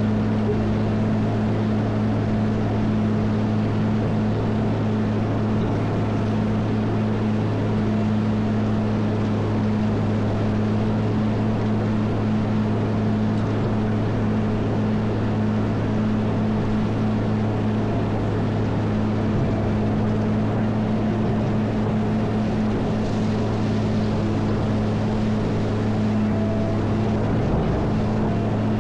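Caterpillar 140M motor grader's diesel engine running steadily at constant speed, a deep even drone that holds one pitch.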